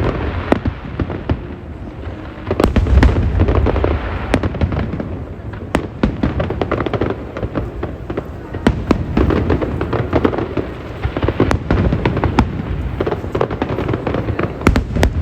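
Aerial fireworks going off continuously: many sharp cracks and pops over a steady rumble of booming bursts.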